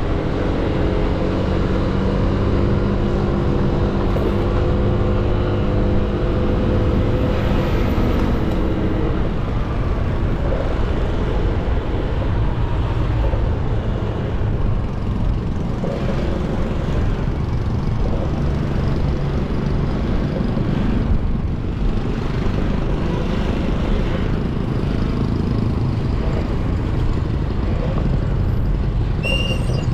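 Motorcycle engine running while riding, under a steady rumble of wind and road noise through a foam-covered action-camera microphone. The engine's pitch holds steady for the first several seconds, then sinks into the rumble.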